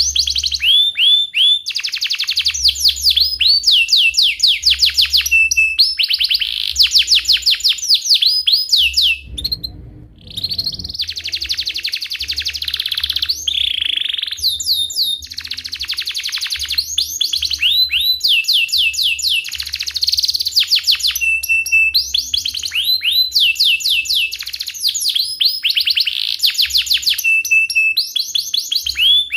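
Domestic canary singing a long, continuous song of rolling trills: fast runs of repeated downward-sweeping high notes, with a short break about ten seconds in.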